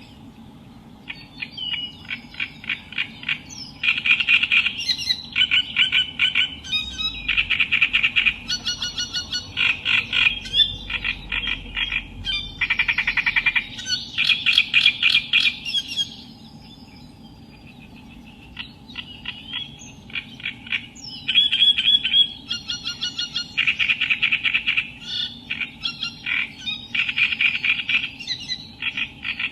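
Reed warbler singing: harsh, rapidly repeated chattering phrases in long bouts, with a pause of a few seconds about halfway through.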